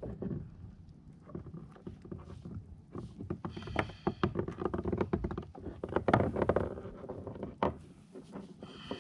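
Irregular knocks, clicks and clatter of gear and a caught fish being handled on a plastic fishing kayak.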